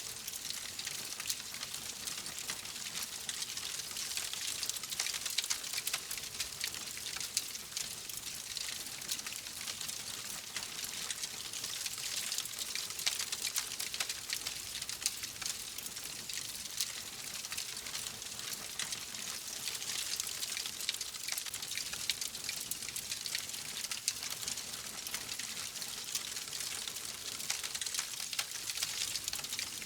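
Wood fire crackling steadily: a continuous hiss thick with small, rapid pops and snaps, none standing out far above the rest.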